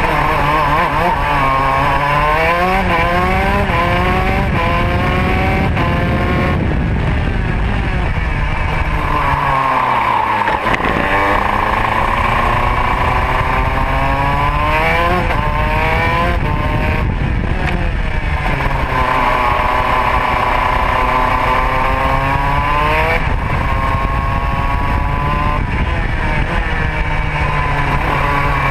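Modena two-stroke kart engine at racing speed, its revs climbing and falling again and again between straights and corners, with the deepest drop about ten seconds in followed by a long climb back up.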